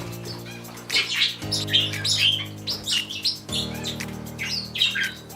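Small pet parrots chirping and calling over and over, over background music with long held chords.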